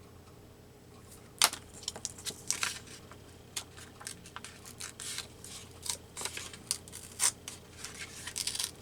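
Paper being torn by hand along a line wetted with a water brush, a string of short, irregular crackling rips starting about a second in. The tear is not following the line cleanly, which the crafter puts down to the paper not being wet enough.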